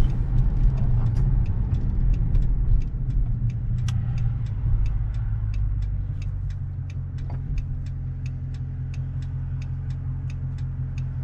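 Car engine rumbling steadily, easing off after about six seconds, with a turn signal ticking evenly about three times a second.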